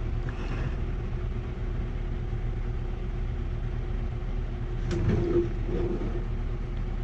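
Steady low machine hum, with a short click and a few faint knocks about five seconds in.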